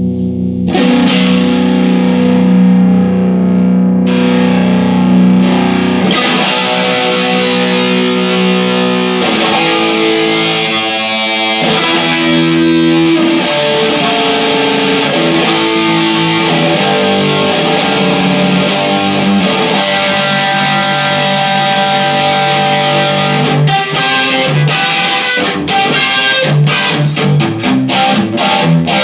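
Electric guitar played through a 2010 Vox AC30HW2 valve amplifier, newly repaired of cold solder joints on its potentiometers and badly placed grid stoppers. Held chords ring for the first several seconds, then give way to single-note lines, and short, choppy chords toward the end.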